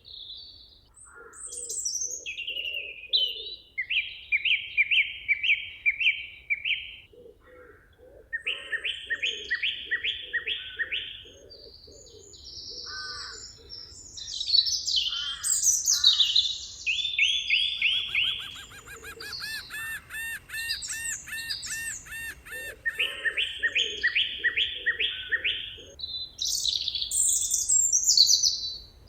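Songbirds singing in a forest, several voices at once. One bird repeats a phrase of about six quick, evenly spaced notes several times, and a rapid chattering trill and higher whistled notes come in around the middle.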